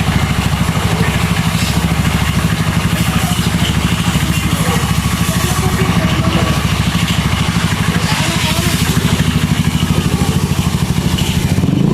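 A small engine running steadily at a constant speed, with a fast, even low throb.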